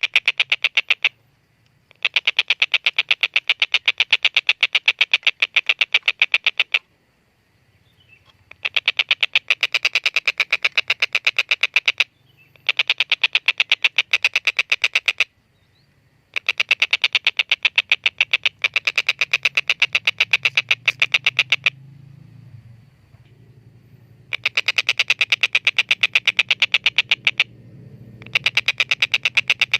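Tengkek buto kingfisher giving its long, rapid 'kek-kek-kek' cackle in about seven bursts of a few seconds each, separated by short pauses. A low hum runs underneath in the second half.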